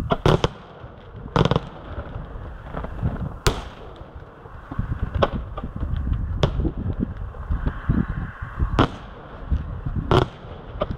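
Aerial firework shells bursting: about eight sharp bangs at uneven intervals, some close together, over a low rumble.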